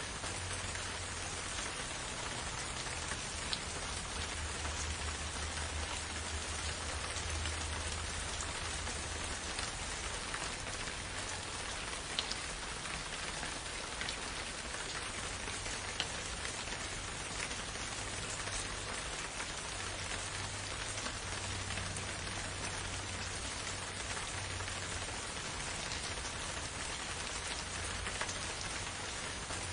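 Steady rain falling in a forest, an even hiss with a few louder single drops ticking, over a faint low rumble.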